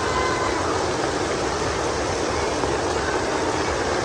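Heavy rain falling: a loud, steady hiss with a low rumble underneath.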